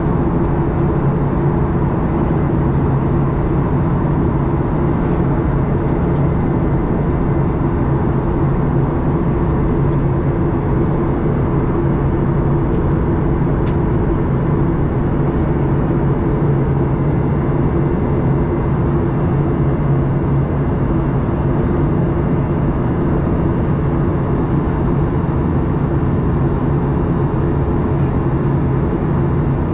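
Steady cabin noise inside a Boeing 737-800: the hum of its CFM56 jet engines under a constant rushing noise, with low droning tones and an unchanging level.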